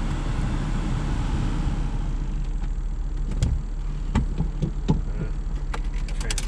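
Honda Accord's 3.0-litre V6 running, heard from inside the cabin as a steady low rumble, with scattered sharp knocks and clicks over it.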